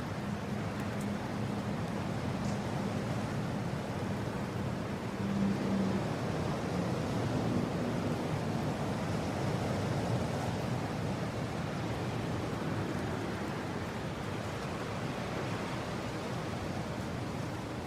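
Steady mountain wind blowing, a low even rush that swells slightly about five seconds in, with a faint low hum through the first few seconds.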